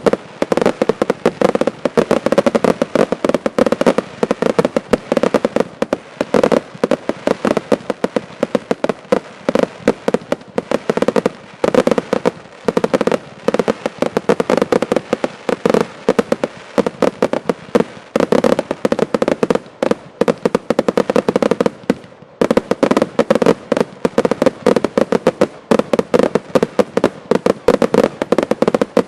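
Fireworks finale: a dense, continuous barrage of rapid bangs and reports, with a brief gap about 22 seconds in.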